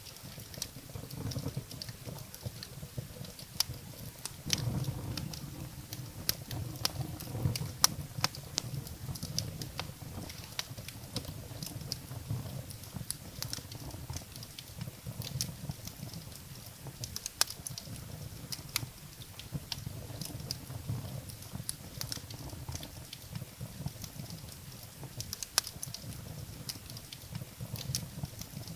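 Wood fire burning in a fireplace, with irregular sharp crackles and pops of burning firewood over a low steady rumble of flames.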